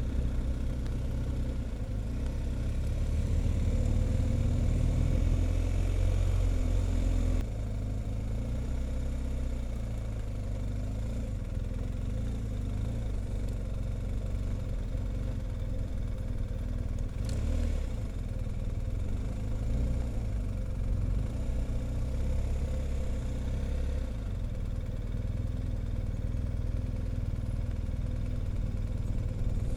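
Motorcycle engine running steadily, louder for about the first seven seconds, then settling to a lower, even level.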